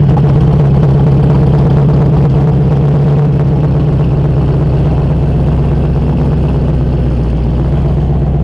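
Twin-turbocharged and supercharged 1000-plus horsepower engine of a 1965 Mustang fastback restomod, idling loud and steady.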